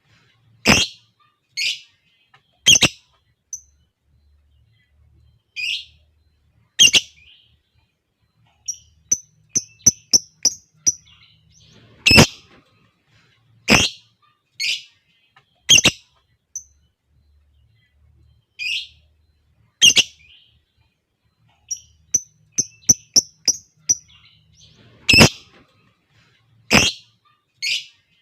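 Lovebirds calling: loud, shrill single calls spaced a second or more apart, with two quick runs of rapid chirps, one about a third of the way in and another near the end.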